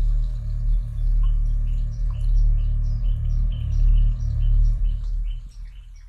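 A loud, steady low rumble, fading near the end, under a bird's short high chirps repeated a few times a second.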